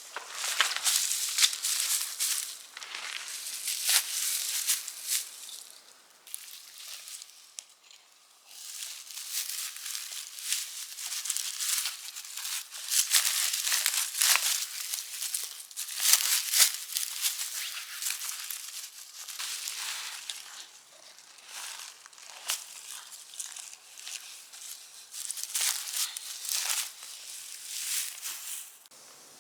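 Irregular bouts of rustling and crinkling, loud and soft by turns, with a short quiet stretch about eight seconds in.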